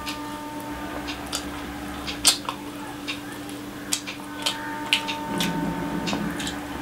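Close-miked wet chewing and lip-smacking of a mouthful of fried rice and curried egg: a string of sharp smacks and clicks, the loudest a little over two seconds in.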